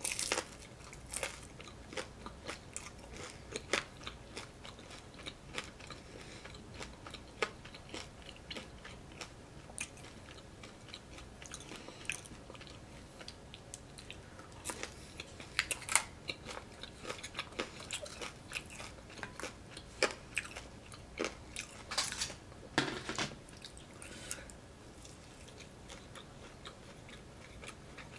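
Close-miked chewing and crunching of a fried Indian appetizer: a run of crisp bites and mouth clicks that thins out in the last few seconds.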